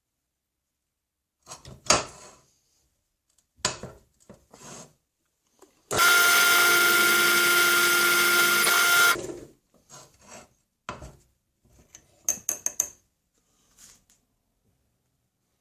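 A small power tool runs for about three seconds, then winds down, with scattered clicks and knocks of small metal parts being handled before and after it while lock screws are made.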